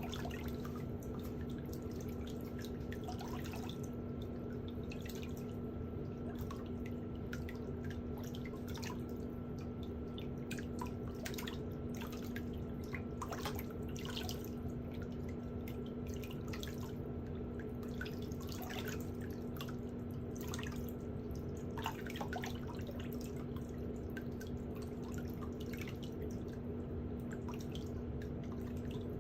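Water dripping and splashing in irregular small drops and trickles, typical of feet being soaked or rinsed in a pedicure foot basin, over a steady low hum.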